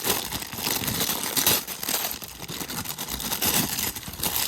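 Toy packaging being handled close up: plastic and cardboard rustling and crinkling, with many small clicks.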